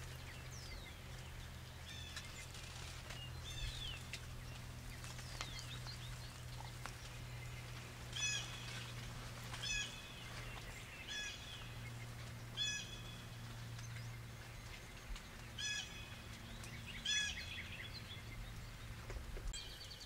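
Wild birds calling in the woods: a short, high call repeated about every second and a half through the second half, with a few thin falling whistles earlier. A faint low steady hum runs underneath.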